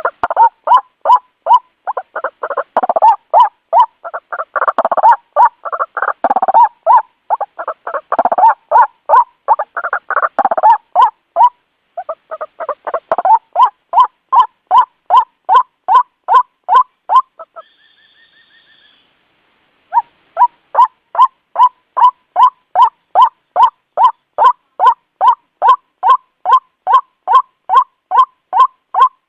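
White-breasted waterhen (ruak-ruak) calling: a short note repeated over and over, about two to three a second. Several calls overlap into a denser chorus during the first third, and there is a pause of about two seconds just past the middle before the steady series resumes.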